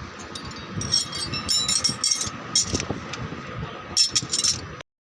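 Repeated light metallic clinks and jingles over a steady machine hum, as from metal parts and tools being handled during brake disc resurfacing. The sound cuts off abruptly just before the end.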